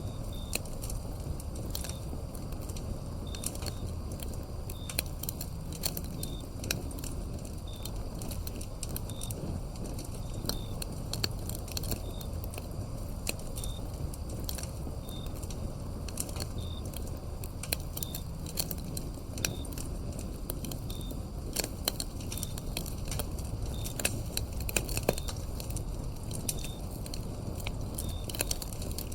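Wood fire crackling, with sharp irregular pops over a low rumble, while crickets chirp in short, high, evenly spaced calls about once a second.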